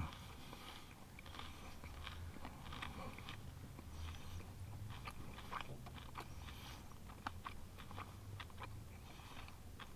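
Close chewing of a mouthful of grilled cheese sandwich packed with crushed barbecue potato chips, with scattered faint crunches throughout, over a low steady hum.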